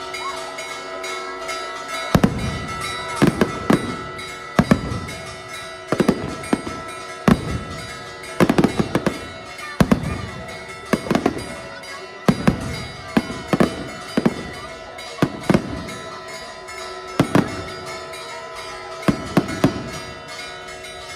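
Fireworks bursting in irregular succession, single loud bangs and quick clusters of them, each trailing off in an echo; the bangs start about two seconds in, over a steady background of held tones.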